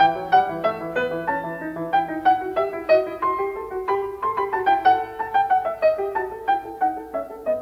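Background piano music: a steady run of quick, evenly struck notes.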